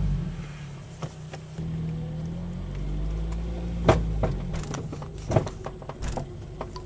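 Car moving slowly over bumps with its engine running low, and several sharp clunks from the car, the loudest about four seconds in. This is the clunk heard when the body shifts side to side over bumps; the owner has read that brakes can cause it, but lightly pressing the brakes does not stop it.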